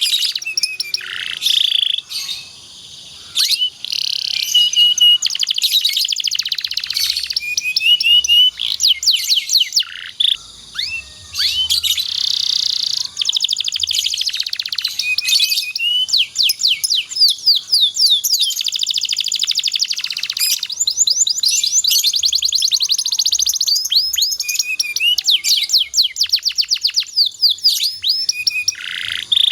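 Domestic canary singing a long, continuous song of rapid rolling trills, high whistled notes and buzzy chatter, with short pauses between phrases.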